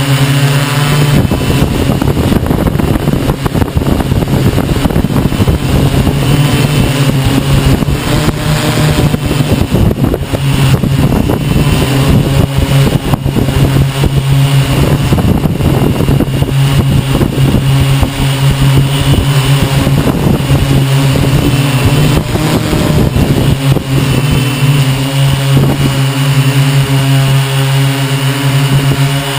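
Hexacopter's six electric motors and propellers humming at a steady pitch, with heavy wind buffeting the microphone.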